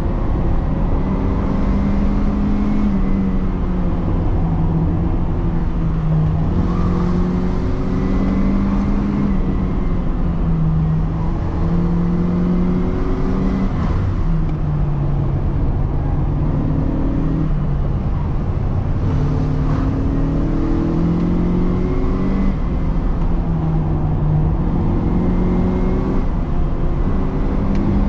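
Tiny car engine driving through a three-speed transmission, heard from inside the cabin, struggling along the road. The engine note climbs and then drops back again several times.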